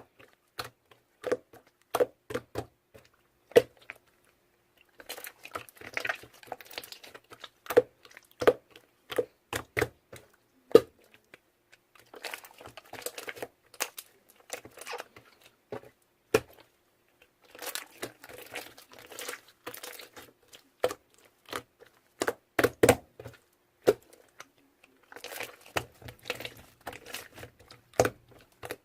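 Irregular rustling and crinkling, in several spells of a few seconds, mixed with many sharp clicks and taps.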